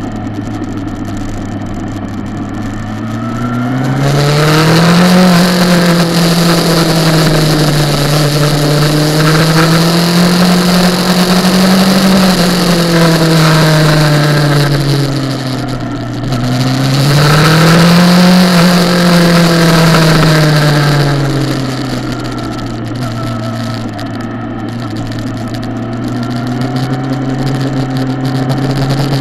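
Kawasaki ZX-10R inline-four engine heard from on board at track speed. It runs steadily on light throttle, then pulls up in revs for about ten seconds, drops back briefly, pulls up again, and eases back to a steady lower note near the end.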